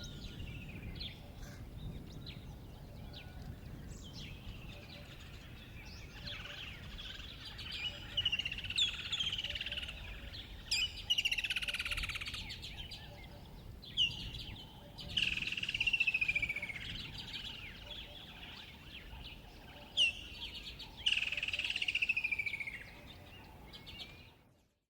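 Wild songbird singing: repeated songs, each opening with a sharp note and running down in a quick falling trill, every few seconds, with a few scattered chirps, over a faint low background noise. The birdsong fades out just before the end.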